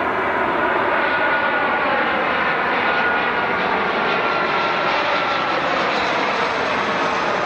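Airliner engines running loud and steady as a plane passes, a broad rush with a faint whine that slowly falls in pitch.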